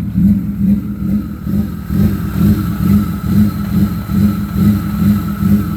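BMW E36 3 Series coupé's engine idling with an uneven, pulsing beat, typical of a car that doesn't like to idle and tends to stall, with a faint steady whine underneath.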